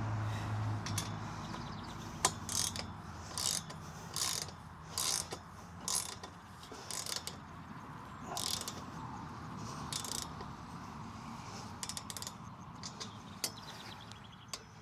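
Ratcheting socket wrench clicking in short, irregular strokes as the bolts of a steel roof mount are tightened, with a few sharp clicks between strokes.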